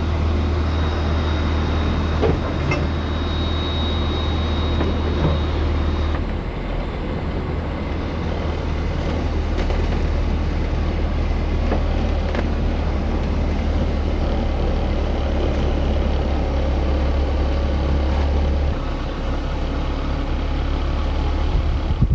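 A car driving, with a steady low engine and road drone that changes about six seconds in and again a few seconds before the end.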